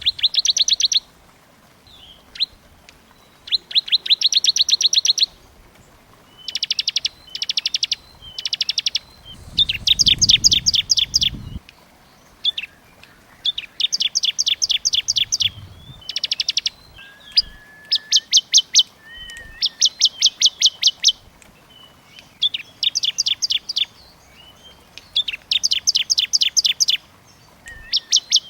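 Small songbird singing in fast trills: bursts of about a second of rapidly repeated high notes, roughly a dozen a second, separated by short pauses and a few single short calls.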